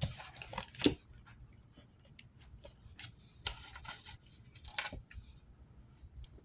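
Cards being shuffled and handled: a series of short papery flicks and scrapes, busiest about a second in and again around the middle.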